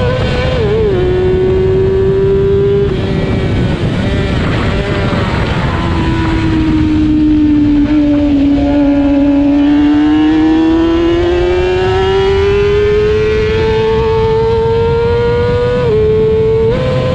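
Racing motorcycle engine heard onboard: engine speed steps down twice just after the start as the rider changes down, sinks slowly to its lowest around eight seconds in while slowing through a corner, then rises steadily under acceleration until an upshift near the end.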